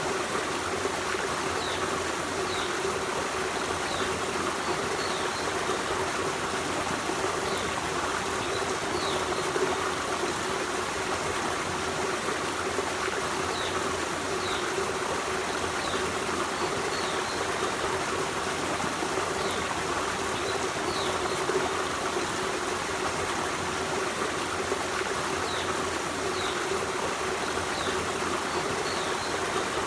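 Forest stream running and trickling over rocks in a steady, even rush of water. Faint short high chirps come every few seconds.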